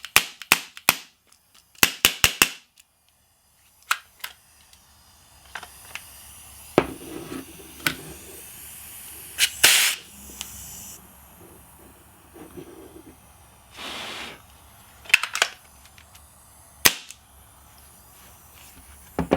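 Sharp metallic clicks from handling a gas air pistol's mechanism: a quick run of them in the first few seconds, then single clicks every couple of seconds. A short hiss of gas comes about ten seconds in, from a valve the owner finds leaking.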